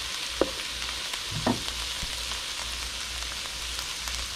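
Sliced vegetables stir-frying in a nonstick skillet, sizzling steadily, with two brief knocks about half a second and a second and a half in.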